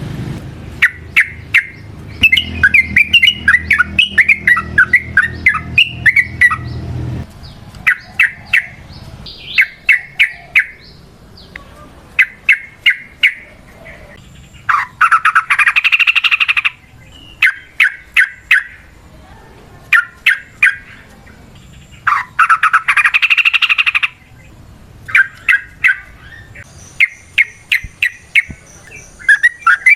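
Yellow-vented bulbul (trucukan) calling over and over: quick runs of short chirps and bubbling, tumbling phrases, with two longer harsh rattling bursts midway. A low hum sits underneath for the first quarter, then stops.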